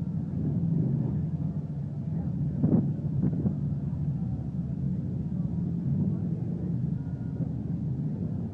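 Steady low rumble of motorcycle engines in the street, with background voices and a brief louder burst about three seconds in.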